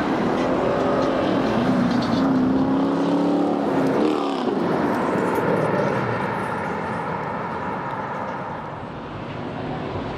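Car engines accelerating as cars pull away and drive past on the street. The engine note climbs, drops sharply about four seconds in, climbs again, then eases off.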